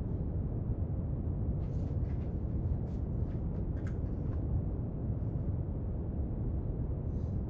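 Steady brown noise, a deep even hiss with most of its weight low down. A few faint light clicks from desk work sound over it in the middle and once near the end.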